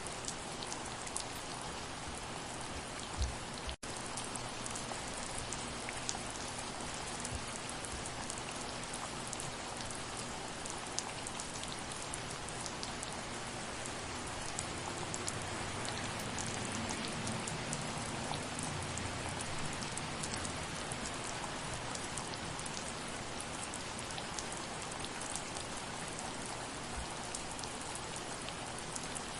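Steady soft rain: an even hiss with a fine patter of individual drops. A low thump comes about three seconds in, and the sound briefly cuts out just before four seconds.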